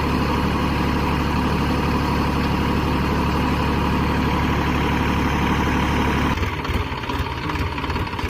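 Tractor engine running steadily at idle; about six seconds in its steady note changes abruptly to a rougher, slightly quieter running.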